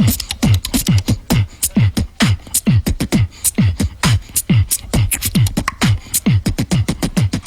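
Vocal beatboxing: a deep bass sound that drops in pitch, repeated about three times a second, with sharp snare- and hi-hat-like clicks between, all made with the voice alone.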